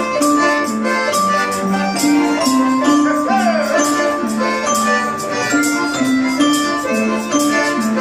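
Instrumental passage of a Russian folk song: a pitched melody of held notes over hand percussion keeping a steady beat of about two strokes a second.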